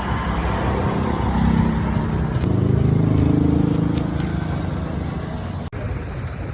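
Street traffic with a motor vehicle's engine passing close, its pitch shifting as it goes; loudest about three seconds in.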